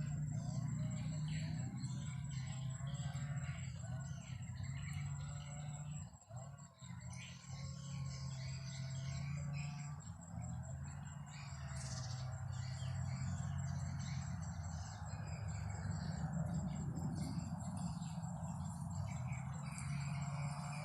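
Wild birds calling and chirping over a steady high-pitched insect trill, with a constant low hum underneath.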